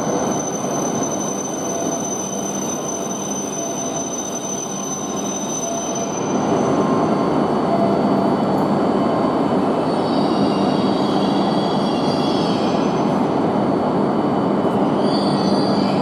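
E5 series Shinkansen running slowly along the platform as it pulls in and brakes to a stop: a steady rumble that grows louder about six seconds in, with faint high squeals over it twice in the second half.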